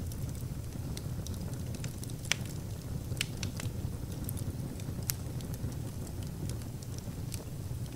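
Fire burning in a fireplace: a steady low rumble of the flames with scattered sharp crackles and pops, the loudest a little over two seconds in.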